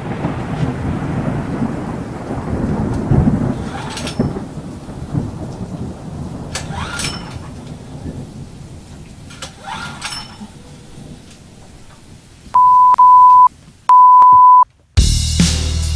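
Thunderstorm: rolling thunder over rain, with sharp cracks about 4, 7 and 10 seconds in, the rumble slowly fading. Near the end, two loud steady electronic beeps, then music starts.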